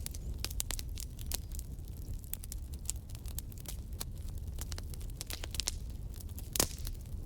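Wood fire burning in a fireplace: a steady low rumble of the flames with irregular crackles and snaps, one louder pop about six and a half seconds in.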